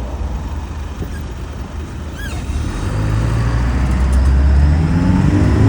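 Land Rover Defender 300Tdi four-cylinder turbo-diesel engine running, its note rising and growing louder from about three seconds in as the truck pulls away and accelerates.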